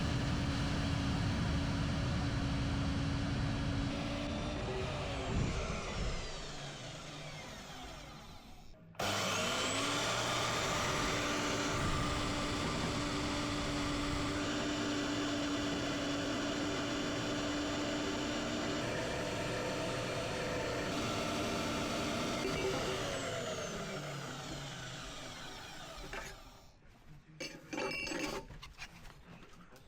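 A handheld electric power tool running at a steady pitch and winding down as it is switched off, twice, followed by a few light clicks and knocks near the end.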